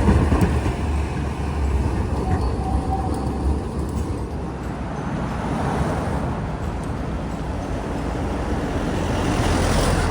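Street traffic passing at a city tram junction. A deep rumble eases after the first few seconds, then a vehicle grows louder and passes near the end.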